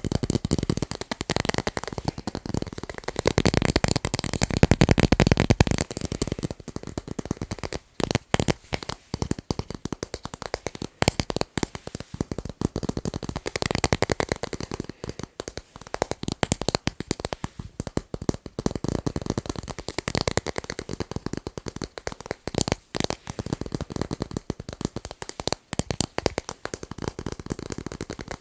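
Fast, dense tapping on tape, many quick taps a second, heaviest a few seconds in.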